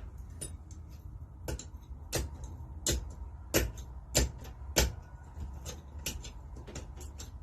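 Hand tool clicking against metal on the engine as a hard-to-reach nut is worked, six sharp clicks about two-thirds of a second apart, then lighter clicks.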